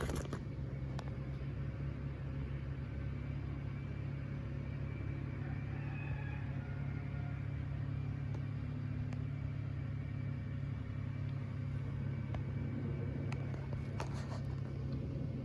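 Steady low rumble throughout, with a few faint clicks.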